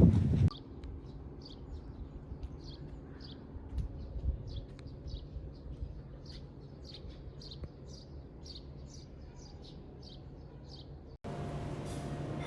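A small bird chirping over and over in a quick string of short, high chirps, about two to three a second, over a faint low hum. A louder noise breaks off about half a second in, and a louder steady hum begins near the end.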